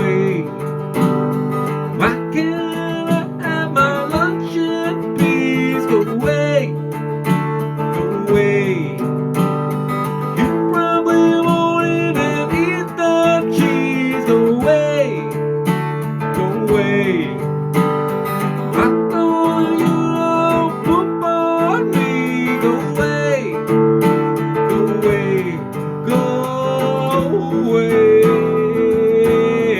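Instrumental break of a strummed acoustic-guitar song, with a lead melody that bends and wavers in pitch over steady chords.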